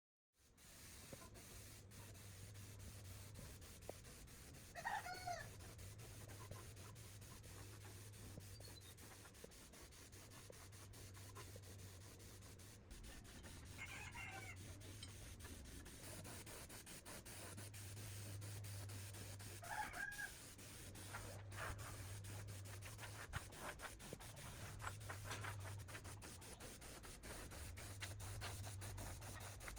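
Faint, steady rubbing or sanding. Three short animal calls come through, about five, fourteen and twenty seconds in.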